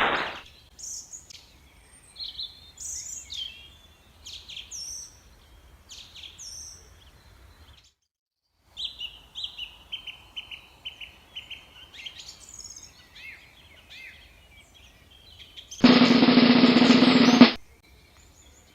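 Birds chirping and calling in quick high notes and trills, broken by a brief cut to silence about eight seconds in. Near the end a loud, harsh, alarm-like buzzer sound effect lasts about a second and a half.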